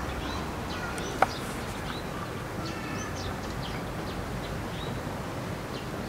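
Scattered faint, high, short chirps of small birds, with one sharp click about a second in.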